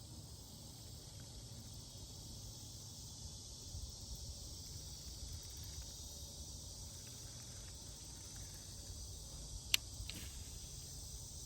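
A steady, high chorus of insects at the pond, with a low rumble underneath. A single sharp click sounds near the end, with a fainter one just after.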